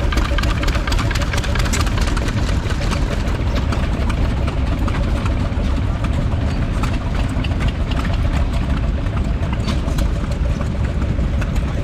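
Vintage stationary engine running steadily, with a dense clatter of clicks over a deep, even running note.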